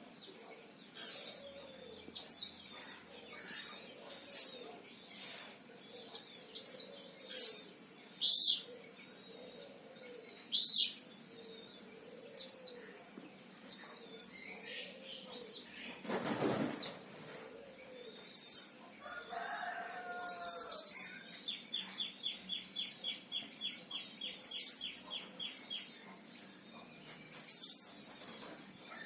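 Caged mantenan Himalaya songbird singing loudly: short, sharp high chirps and whistled notes repeated every second or two, with a fast, even rattling trill running under them through the last several seconds. A brief rustle about sixteen seconds in.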